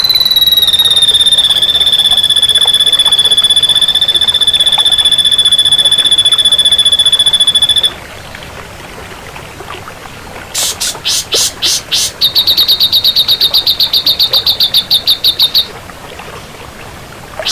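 Ashy drongo singing: one long, steady, high whistle held for about eight seconds, then after a short pause, fast runs of rapidly repeated sharp notes, with another run starting near the end.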